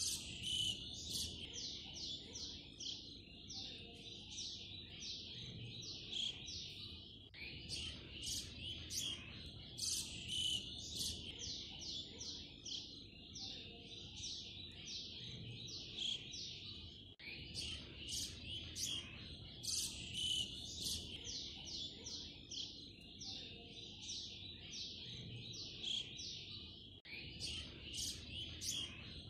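Small birds chirping rapidly and continuously, many short high chirps a second. The same stretch of chirping restarts about every ten seconds, a looped birdsong ambience track.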